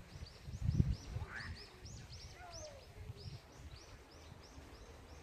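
A bird chirping in a quick series of short, high notes, three or four a second, with a few low thumps about a second in.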